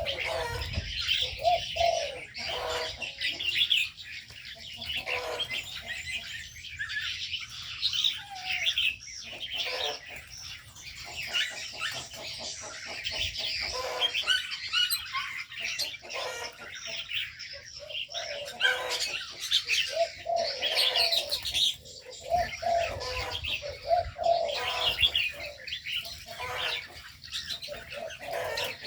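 A chorus of aviary birds: many small birds chirping without pause, with doves cooing in low repeated notes now and then.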